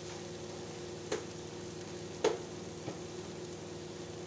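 Rice, lentils and onions frying gently in oil in a non-stick pot on a low gas flame, a steady low sizzle over a steady hum. Three short clicks come about one, two and three seconds in, the second loudest.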